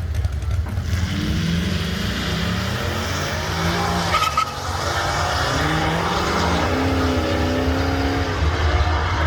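A car accelerating hard down a drag strip, its engine pitch climbing and dropping back at each gear change, over a steady low rumble.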